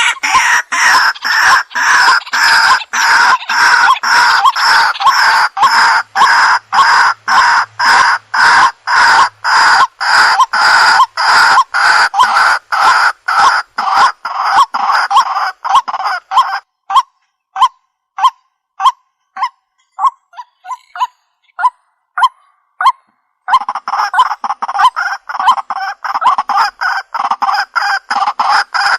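Waterhen (jal murgi) calling loudly in a fast repeated series of harsh notes, about two a second. For a few seconds past the middle the notes thin out to shorter, sparser ones, then the full series resumes.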